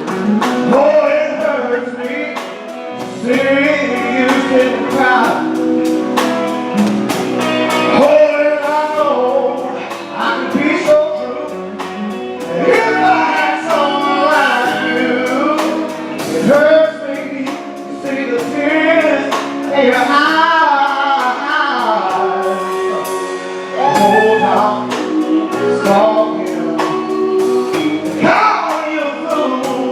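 Live band music with male singing, carried over a steady drum beat.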